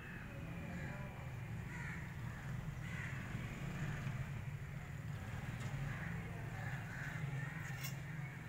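Birds calling repeatedly, short calls about once a second, over a steady low hum. A single sharp click sounds near the end.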